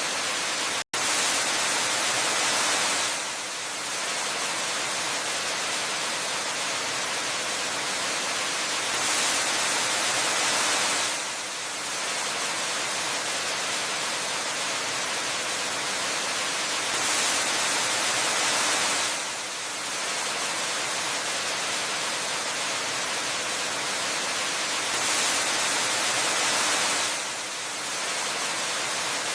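Waterfall rushing as a dense, steady hiss. It swells louder for about two seconds at an even interval of roughly eight seconds. About a second in it cuts out for a split second.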